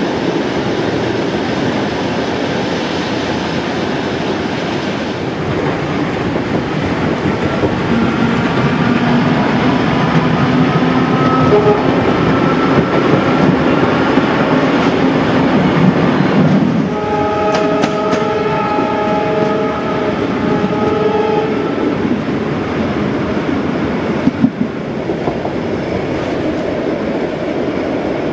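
Trains running on parallel tracks, heard from inside a moving carriage: a steady rumble of wheels on rail. A long steady tone comes in about eight seconds in, then a train whistle sounds a multi-tone blast for about four seconds from about seventeen seconds in. A single sharp knock near the end.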